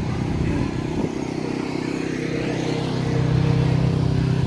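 A car engine running steadily at idle, growing a little louder about three seconds in.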